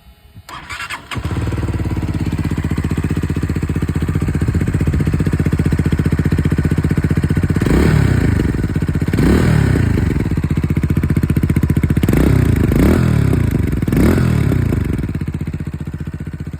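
Herald Brat 125cc motorcycle engine started about a second in, then idling through its exhaust with several quick throttle blips, each revving up and dropping back, in the second half before settling back to idle.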